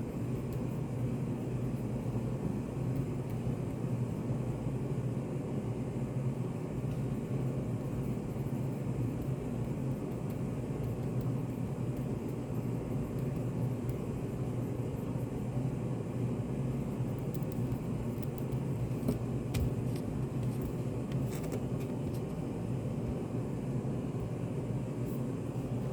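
Steady low rumbling background noise of a study café, even and unchanging, with a few faint clicks a little before the end.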